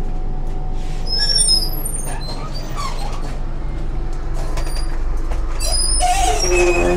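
Steady low rumble of a passenger train coach in motion, with scattered creaks and squeaks from the carriage. A louder scrape comes near the end.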